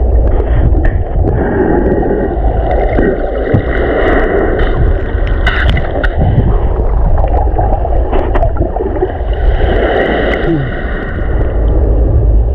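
Sea water churning and gurgling around the microphone in the surf, with a steady heavy rumble of waves.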